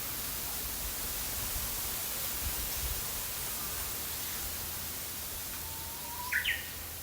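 Steady hiss of an outdoor field recording with a faint Japanese bush warbler (Japanese nightingale, uguisu) song near the end: a long low whistled 'hoo' followed by quick higher 'ho-ke-kyo' notes.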